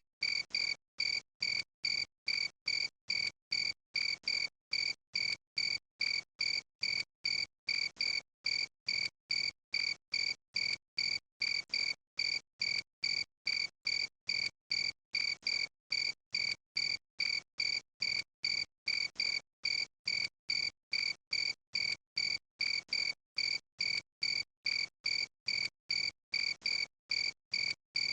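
Cricket chirping steadily, between two and three short clear chirps a second in an unbroken, very even rhythm.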